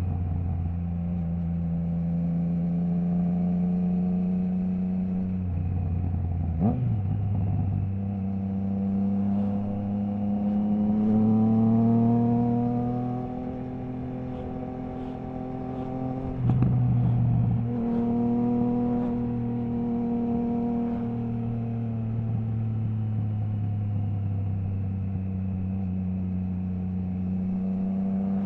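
Triumph Trident 660's three-cylinder engine through a baffle-less Zard stainless full exhaust, heard from the bike while riding. The engine note rises and falls with the throttle. It breaks off sharply twice, about a third of the way in and again past halfway, with a dip in level in between.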